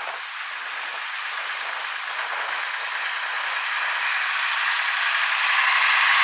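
A vintage Scania truck approaching, its engine and tyre noise growing steadily louder.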